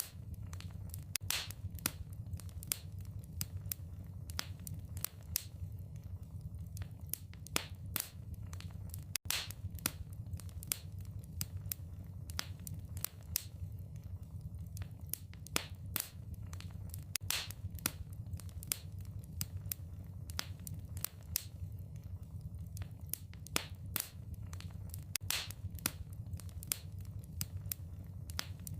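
Wood fire in a fireplace crackling and popping: irregular sharp snaps, several a second, over a steady low rumble of the flames. The sound briefly drops out about nine seconds in.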